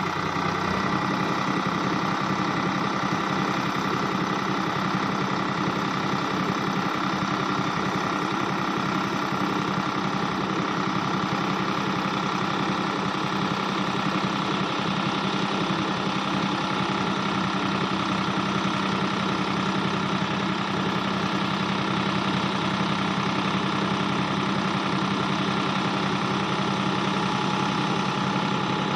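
Sonalika DI 750 RX tractor's diesel engine running steadily at a constant speed.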